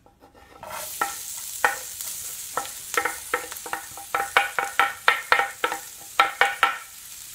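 Minced garlic and sliced dedo-de-moça red chili sizzling as they go into hot olive oil in a frying pan. A wooden spoon knocks repeatedly as it scrapes and stirs them, the knocks coming faster from about four seconds in.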